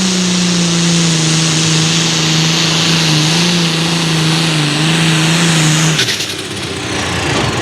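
Super Farm class diesel pulling tractor running flat out on a pull, its engine note steady with a slight waver, then cutting off abruptly about six seconds in.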